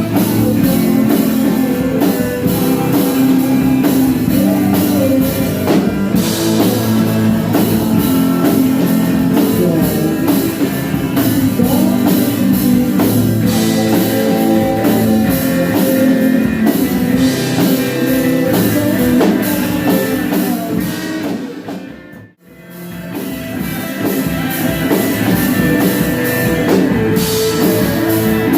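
Live rock band playing with electric guitar and drum kit, the music dropping out almost completely for a moment about three quarters of the way through, then starting again.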